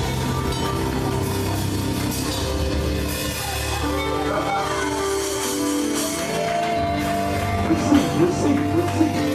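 Live gospel praise music from a church band: sustained held chords over bass and drums. About eight seconds in, a run of short pulsing notes starts, about three a second.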